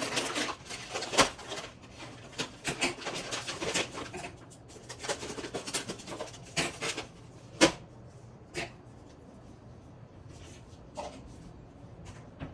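Kitchen handling noises: rustling, scraping and clattering with many short knocks, the sharpest about a second in and about seven and a half seconds in, then only a faint knock or two.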